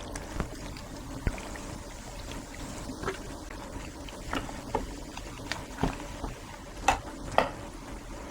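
Sprite poured over chicken in its marinade: a steady liquid hiss with scattered short clicks and light knocks.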